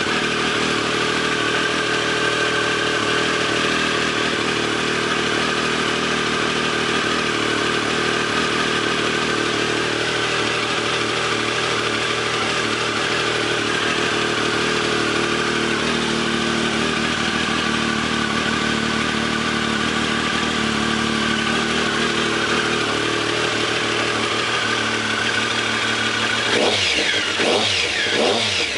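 Triumph Daytona 955i's three-cylinder engine idling steadily just after a cold start, running on a warm-up fuel map richened to cure hard cold starting. Near the end the throttle is blipped a few times, the revs rising and falling quickly.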